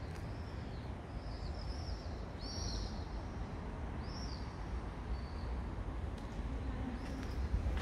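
Small birds chirping: a string of short, arched, high chirps about a second apart, over a steady low rumble.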